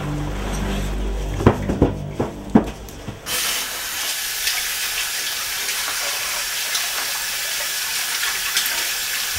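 Music with held low notes ends about a second and a half in, followed by a few sharp knocks. From about three seconds in, a kitchen tap runs steadily into a sink.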